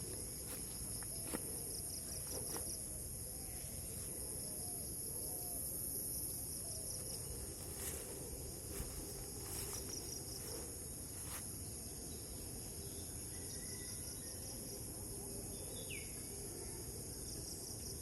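Insects chirring steadily at a high pitch, with some stretches pulsing evenly, over a low background hum. A single short falling bird call comes late on.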